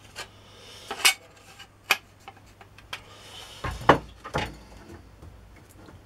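Steel drill bits and drill bushes clinking and tapping against a metal drill jig as the bits are set through the holes to check alignment. There are four or five separate sharp knocks a second or so apart, the loudest about four seconds in.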